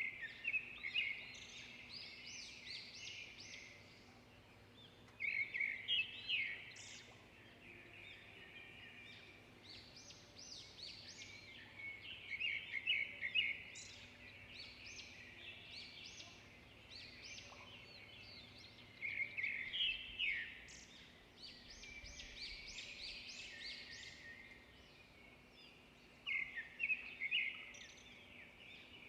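Several small songbirds chirping and trilling together in a continuous chorus, with louder bursts of rapid high chirps every several seconds.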